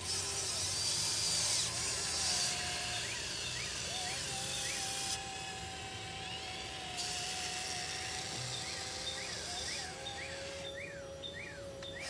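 Radio-controlled excavator's small electric motors and gearboxes whining as it digs, the whine holding steady for a few seconds mid-way and dropping to a lower pitch near the end, with a high hiss switching on and off as the functions change.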